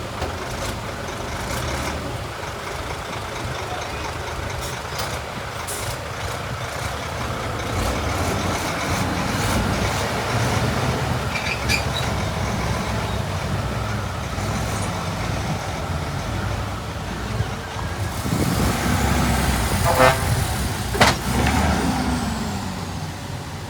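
Heavy diesel earthmoving machinery running steadily, getting louder about a third of the way in. Near the end come two sharp loud knocks about a second apart and a short rising-and-falling whine.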